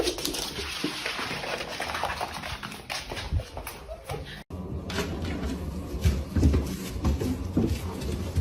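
A dog's small vocal sounds mixed with movement and handling noise, with an abrupt break about four and a half seconds in.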